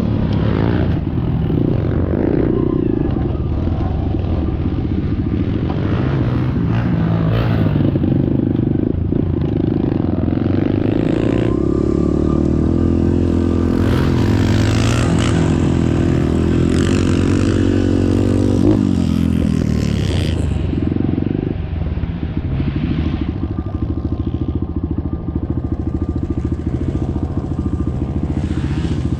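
Dirt bike engine running while being ridden, its pitch rising and falling with the throttle, with a single sharp knock about two-thirds of the way through.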